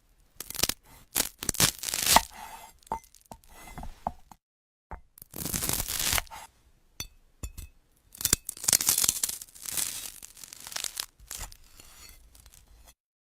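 A blade slicing through glass-like fruit: crisp crackling and scraping in about three bursts broken by short silences, with sharp clicks and snaps in between.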